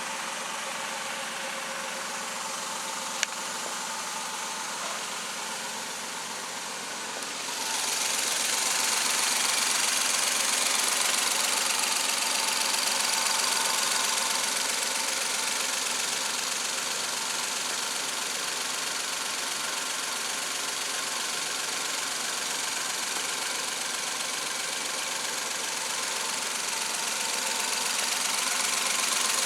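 Suzuki K6A 660 cc three-cylinder engine running steadily. About seven seconds in it grows louder and brighter, and it stays at that level. A single sharp click comes a few seconds in.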